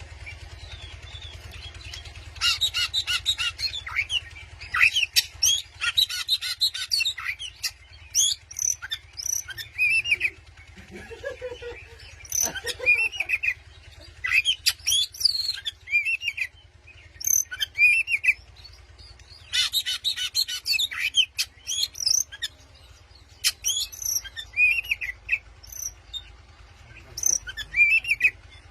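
Oriental magpie-robin (kacer) singing a varied song of clear whistles and quick rising and falling slurs, broken by bursts of rapid chattering notes, with short pauses between phrases.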